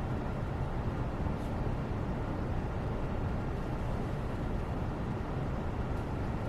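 Steady background noise: an even, low-weighted rush with no tones or rhythm, with a couple of very faint ticks.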